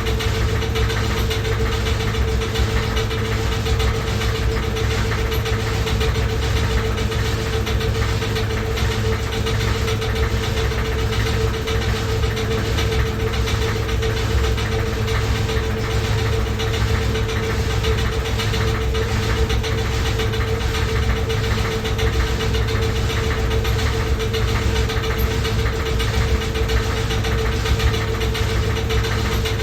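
Washing machine running loudly: a steady whine over a deep rumble, with a fast, regular knocking rattle throughout.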